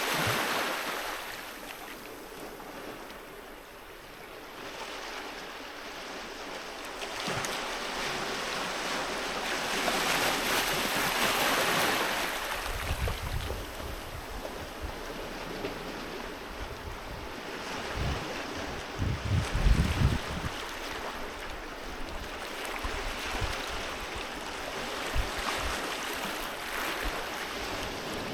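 Sea waves breaking and washing up the shore, the surf swelling and ebbing, with a large wave about ten seconds in. In the second half, gusts of wind rumble on the microphone.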